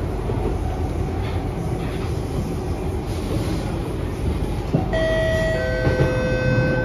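Kawasaki & Nippon Sharyo C751B electric train heard from inside the car while running: a steady rumble of wheels on the track. About five seconds in, a whine of a few steady tones from the electric traction equipment joins and then steps down to a lower pitch.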